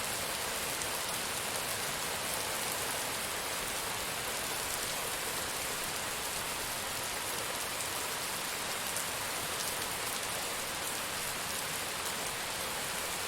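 Steady rainfall, an even hiss of rain with fine drop patter on a surface.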